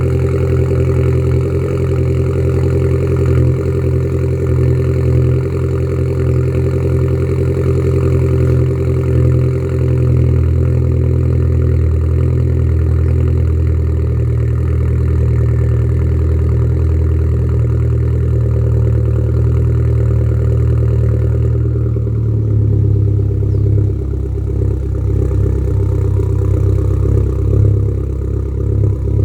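Volkswagen Golf GTI Mk4.5 engine idling steadily after a cold start. About twenty-two seconds in, the note shifts lower as the idle settles.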